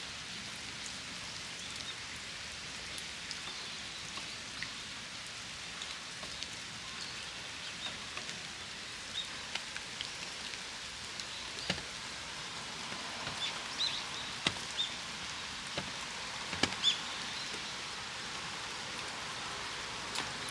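Rain falling on a flower-filled hanachozu water basin: a steady patter with single drops plinking now and then. The drips come more often and louder in the second half.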